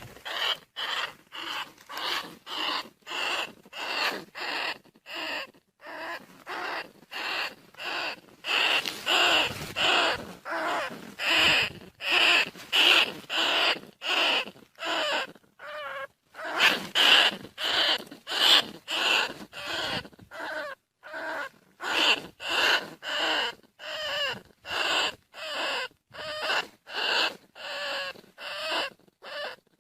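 Bandicoot rat calls: short rasping calls repeated about twice a second in a steady series, a little louder through the middle.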